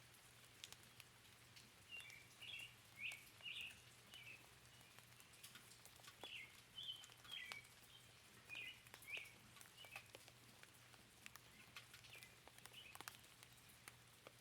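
Faint forest ambience: a songbird calling in groups of short, quick chirps, with light scattered raindrop ticks.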